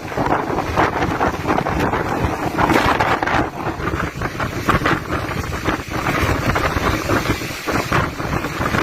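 Strong storm wind gusting and buffeting the microphone in constant, uneven surges.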